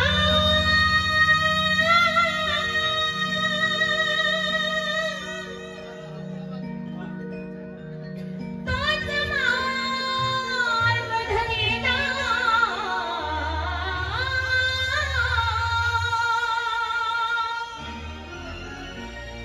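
A woman singing long, ornamented held notes with a wide vibrato over steady instrumental backing chords. The voice drops out for about three seconds around six seconds in, returns with more elaborate runs, and fades near the end, leaving the backing.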